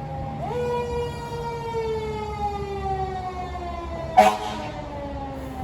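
Fire truck siren giving a quick upward whoop, then winding slowly down in pitch. A short, sharp, loud burst cuts in about four seconds in.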